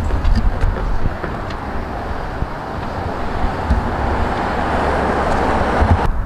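A train rolling past: a steady rushing rumble of wheels on rail, with a few low thumps. It cuts off abruptly near the end.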